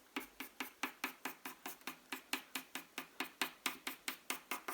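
Pencil on paper making quick short strokes in an even run, about six a second, like dashes of rain being drawn.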